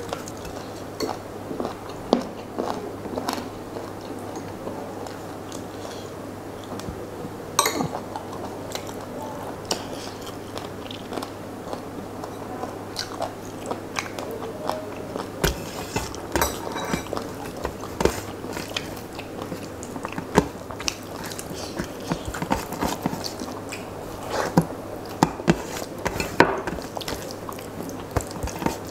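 Close-up eating sounds of a man eating rice by hand: chewing, biting and wet mouth smacks, with the squish of rice being mashed by hand on a steel plate. Many short, irregular clicks and smacks over a steady low hum.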